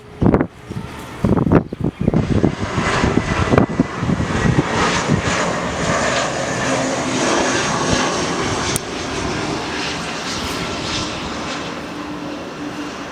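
Jet airliner's engines on landing approach: a rushing noise with a steady high whine builds over a few seconds, holds, then slowly eases off. In the first few seconds, strong wind gusts buffet the microphone.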